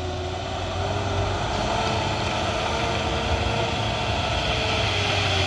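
A truck engine running steadily under load, with a faint whine that rises a little and then drops away near the end.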